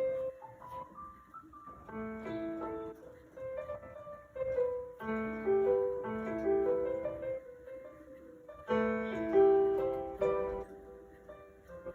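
Background piano music: gentle phrases of notes with short pauses between them.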